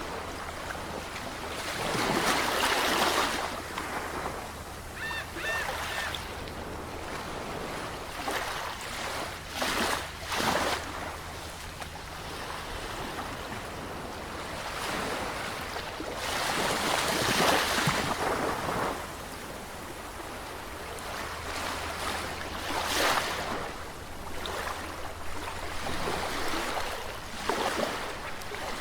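Sea waves breaking and washing on a shore: a steady hiss of surf that swells louder every several seconds as each wave breaks.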